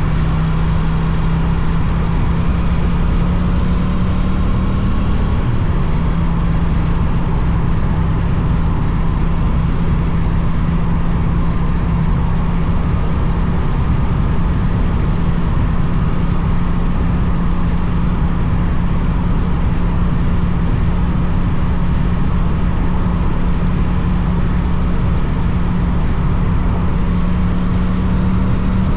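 Suzuki GSX-8TT parallel-twin engine through an Akrapovic exhaust, cruising at a steady pitch, rising slightly a few seconds in and again near the end, over wind and road noise.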